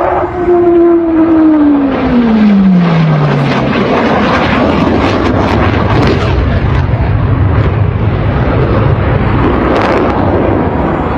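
Loud jet aircraft flying low past: its engine whine falls steeply in pitch over the first few seconds as it goes by, then a rough, crackling rumble carries on.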